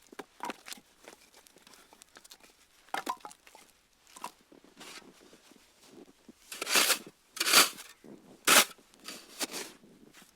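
Campfire wood crackling and popping in irregular snaps, light and sparse at first, then a run of louder pops in the second half.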